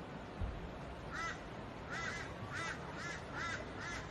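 A bird calling over and over, about six short calls in quick succession starting about a second in, over a steady rushing haze of noise. A brief low thump comes about half a second in.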